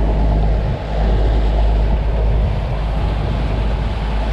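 Motorboat engine running steadily, a loud low drone with a rushing noise over it.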